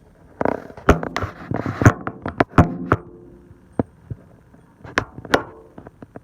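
A run of sharp knocks and clicks, thick in the first three seconds, then a few scattered ones about five seconds in.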